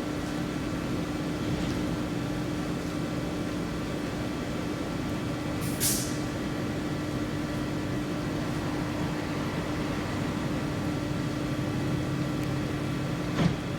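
A train standing at a station with a steady hum, and a brief hiss of air about six seconds in.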